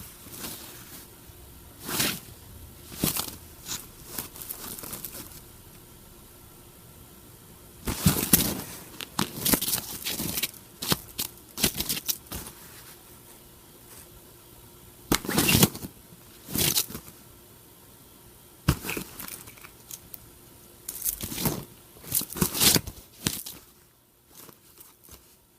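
A cat playing with a crinkly toy: irregular bursts of rustling and crinkling, some short and some lasting a second or two, with quieter gaps between them.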